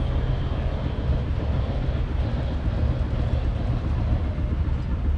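1965 Claas Columbus combine harvester's 1.8-litre four-cylinder diesel engine running steadily with a low, even throb.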